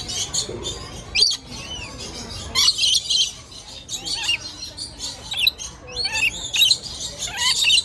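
Lorikeets calling, a dense run of shrill chirps and screeches from several birds at once, loudest in clusters about a second in, around three seconds in and near the end.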